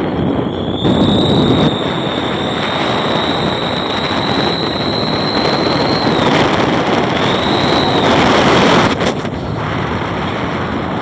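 A car's whistle exhaust ('knalpot serigala') howling: a high whistle held for about five seconds, rising slightly before it breaks off, then a shorter arched whistle a second later, over a steady rush of wind and road noise.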